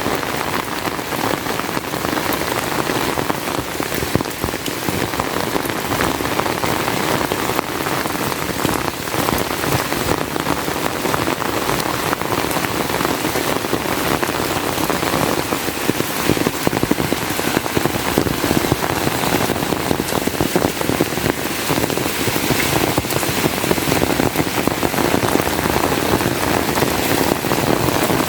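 Heavy rain falling steadily: a dense, unbroken patter of drops.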